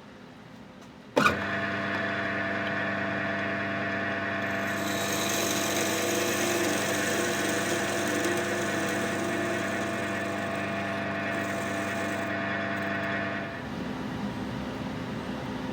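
Wood lathe motor switched on with a click, running with a steady hum, with a higher hiss from the tool working the spinning wood through the middle stretch. It is switched off near the end.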